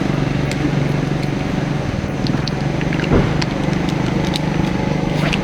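A motor vehicle engine running steadily, with scattered clicks and a single thump about three seconds in.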